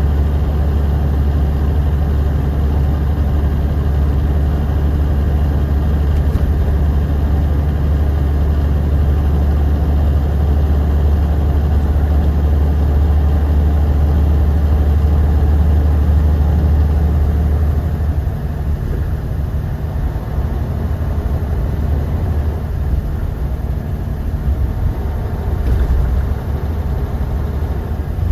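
Bus engine running, heard from inside the passenger cabin: a steady low drone with road noise, which drops in level and turns uneven about two-thirds of the way through.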